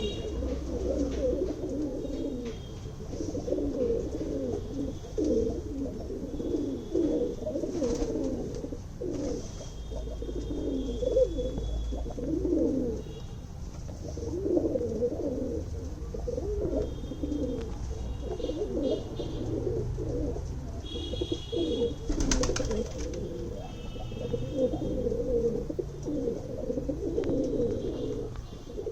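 Domestic high-flyer pigeons cooing continuously, several birds overlapping, with short faint high chirps now and then.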